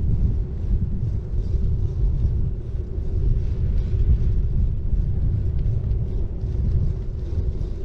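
A city bike rolling along a road, heard as a steady, loud low rumble of tyre and riding noise with a faint hiss above it.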